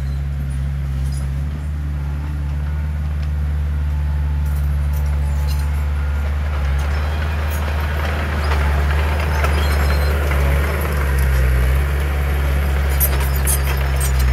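Heavy diesel engine of earthmoving machinery running steadily. A scraping, rattling noise builds from about seven seconds in, and a few sharp clanks come near the end.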